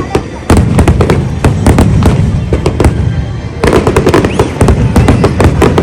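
A large fireworks display: dense, rapid crackling bangs of bursting shells. A fresh barrage kicks in about half a second in and another at about three and a half seconds.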